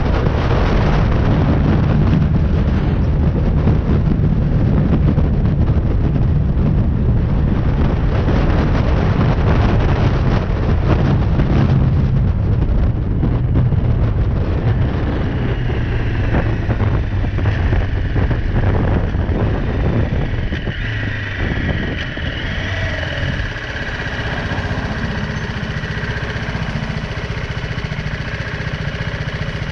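BMW G310R single-cylinder motorcycle engine running while riding, under heavy wind noise on the microphone. About two-thirds of the way in the wind falls away as the bike slows, and the engine's steady tone comes through more clearly.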